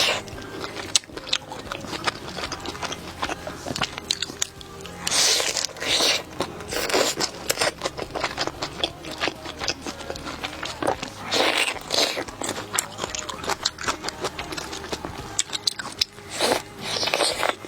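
Close-miked bites into a burger followed by crackly, wet chewing, repeated over and over, with background music underneath.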